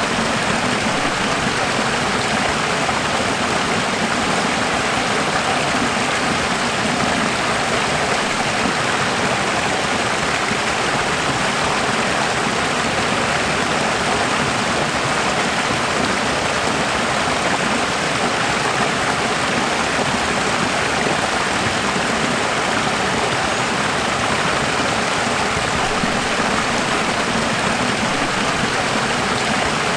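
Running water: a steady, even rush of flowing water that does not change.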